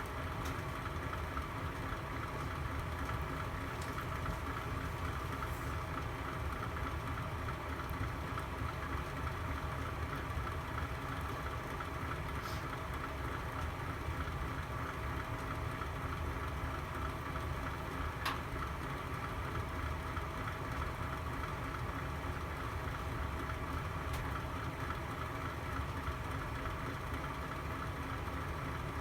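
Fire burning in a fireplace: a steady low rumble and hiss with a few faint pops, the clearest about eighteen seconds in.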